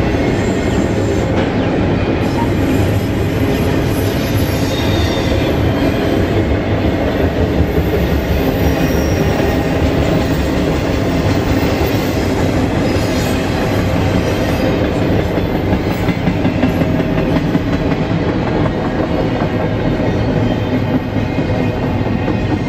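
Double-stack intermodal freight cars rolling past: a loud, steady rumble and clatter of steel wheels on the rails, with brief high wheel squeals now and then.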